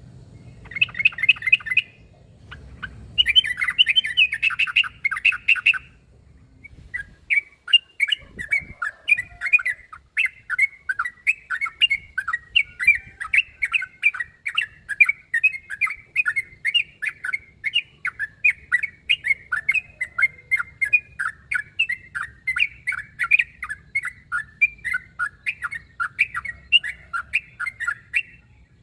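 Yellow-vented bulbul (trucuk) giving its rapid, bubbly chattering song as a challenge call to rivals. There are short bursts in the first six seconds, then an unbroken run of quick repeated phrases from about seven seconds in.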